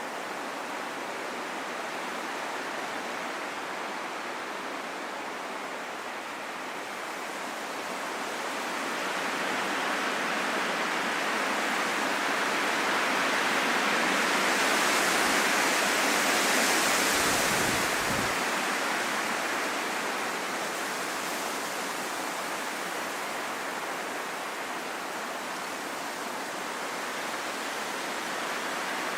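Wind blowing steadily, a rushing noise that swells into a strong gust about halfway through, with a brief low rumble at its height, then eases back.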